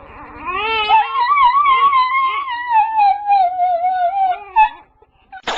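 A dog howling: one long wavering howl of about four seconds that slowly falls in pitch. Near the end comes a short, loud, rasping burst.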